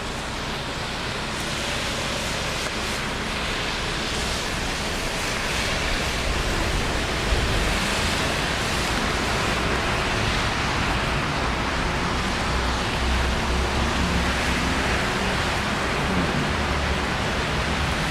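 Steady rain hiss, with a low rumble of city traffic underneath.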